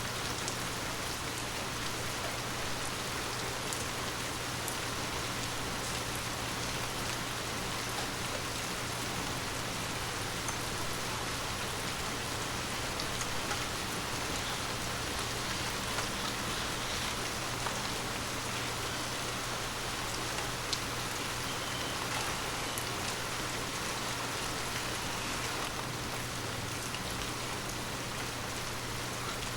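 Steady rain falling on forest leaves, a continuous patter with many scattered individual drop ticks.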